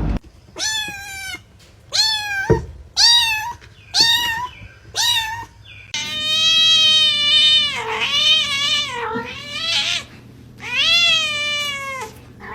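Domestic cat meowing: five short meows about a second apart, then three longer, drawn-out meows that bend up and down in pitch.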